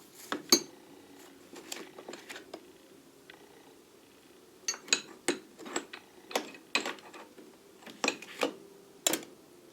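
Small metal lathe tools clicking and clinking as they are handled and set down in a toolbox drawer, in irregular clusters of sharp knocks.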